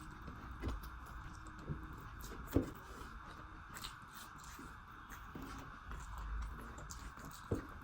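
Close-miked chewing and biting of a rice-and-chicken meal, with a few short, sharp mouth or food clicks at uneven intervals over a steady hiss.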